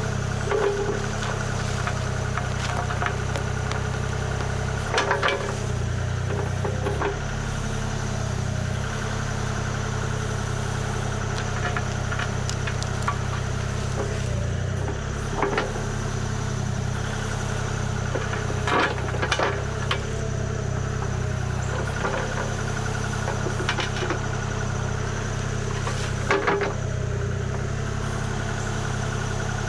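Kubota KX040 mini excavator's diesel engine running at a steady speed, with several sharp knocks and clunks from the machine at work scattered through, some in quick pairs.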